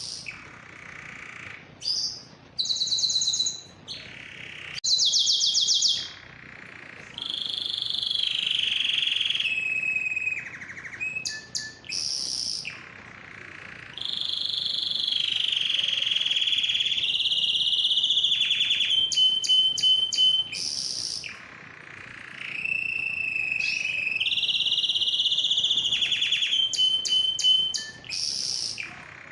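Male domestic canary singing a long song of rapid trills, rolling passages and whistled notes, broken by short pauses, with a long rolling trill in the middle.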